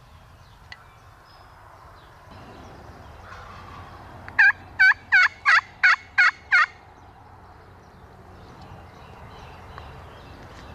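A run of seven loud, sharp turkey yelps, about three a second, made on a hunter's turkey call to draw a gobbler in.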